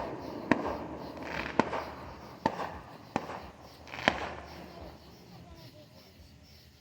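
Fireworks going off: about five sharp bangs at uneven intervals over the first four seconds, then fading away.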